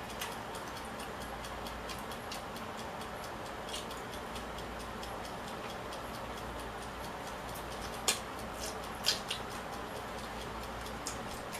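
Quiet eating with no talking: a few sharp clicks, the loudest about eight and nine seconds in, over a steady hiss and faint, regular ticking.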